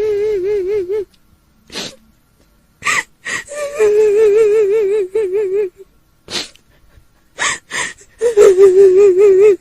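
A woman's quavering wail with heavy vibrato, held in long notes of about two seconds, broken by short sharp gasping breaths: the weeping cry of a kuntilanak ghost. One note ends about a second in, another runs through the middle, and a third starts near the end.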